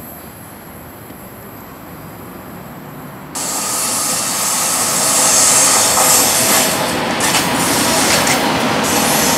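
A TGV high-speed train running past close by: a loud rush of wheels on rail with a strong hiss, starting suddenly about three seconds in. Before that, only a quieter steady background noise.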